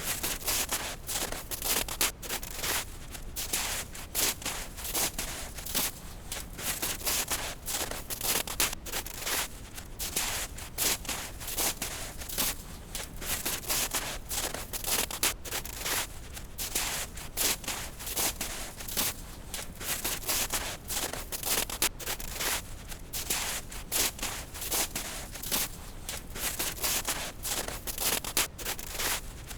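Footsteps crunching through snow, an irregular run of crisp scraping crunches, over a steady low brown-noise rush.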